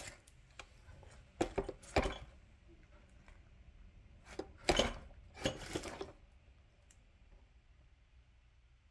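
Clicks, knocks and clinks of metal shock-absorber parts being handled on a workbench, in two short clusters in the first six seconds, then only faint room noise.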